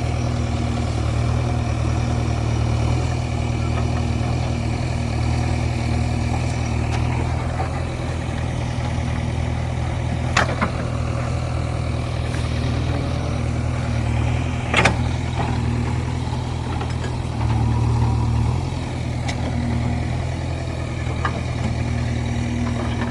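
Heavy vehicle's engine running steadily, with a brief swell in engine sound near the end. Two sharp knocks are heard, about ten and fifteen seconds in.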